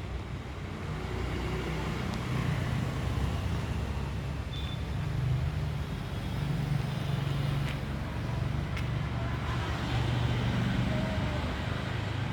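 Road traffic noise: a steady low rumble that swells and fades as vehicles pass.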